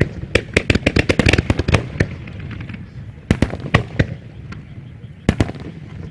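Fireworks shells bursting in a starmine barrage. A rapid string of sharp bangs fills the first two seconds, followed by scattered single bangs and a close pair about five seconds in.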